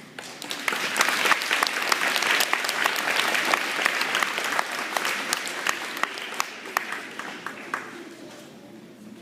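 Audience applauding: many hands clapping at once, swelling in the first second and tapering off over the last few seconds.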